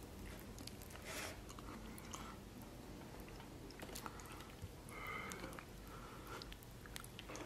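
Faint, wet chewing of braised pork knuckle, with soft squishes and small clicks as the meat is pressed into a bowl of chili-oil dipping sauce.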